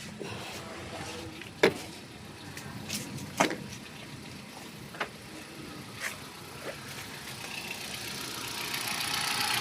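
Several sharp clicks or knocks, then near the end the Hyundai Accent's engine coming up to a rising, steady run as it starts after its burnt ECU was repaired.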